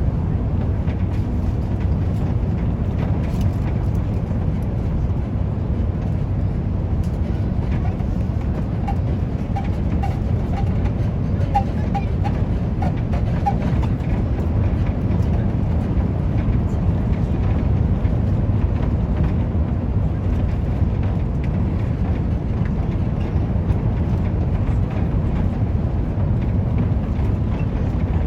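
Steady deep rumble of engines and airflow inside the cabin of an Airbus A350 airliner, with no sudden events.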